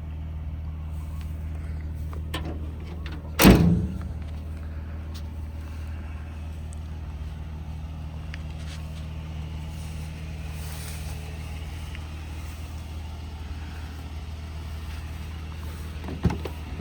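Ram 1500 pickup truck's engine idling steadily, with one loud thump about three and a half seconds in and two smaller knocks near the end.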